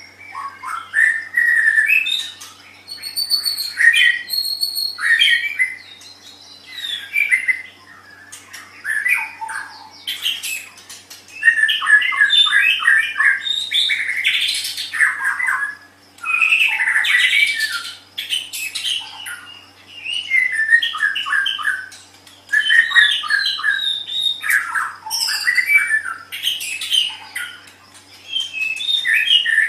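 White-rumped shama (murai batu) singing: a varied song of whistled and harsher notes and rapid strings of short repeated notes, delivered in phrases a second or two long with brief pauses between them.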